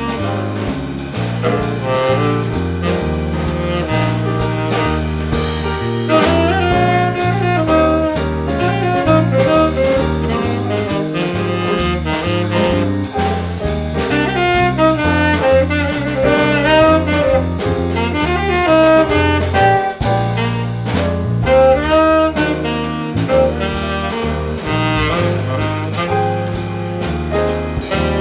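Small jazz combo playing live: a saxophone solos over a walking double bass line and drums with a steady cymbal beat.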